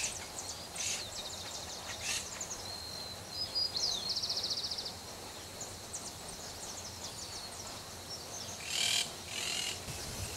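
Wild birds calling in the background: scattered high chirps, a fast high trill about three and a half seconds in, and a louder call near the end, over steady outdoor ambience.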